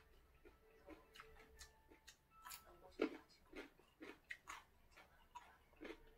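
Raw cucumber being bitten and chewed: faint, irregular crunching clicks, a few a second, the sharpest about three seconds in.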